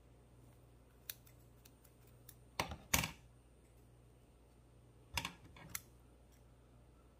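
Steel wool being snipped with scissors and pulled apart by hand: a few short, crisp crunches, the loudest about three seconds in and another pair a little after five seconds.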